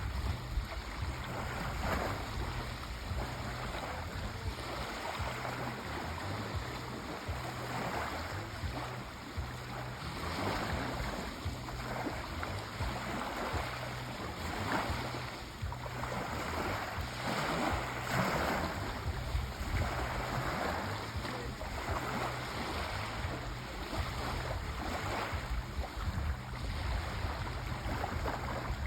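Sea waves washing onto a shore: a continuous rush of surf that swells and ebbs every few seconds, over a steady low rumble.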